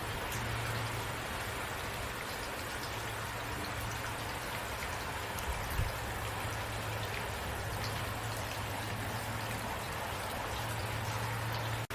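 Steady rain: an even wash of rainfall with scattered individual drops ticking, over a low steady hum. The sound cuts out for an instant near the end.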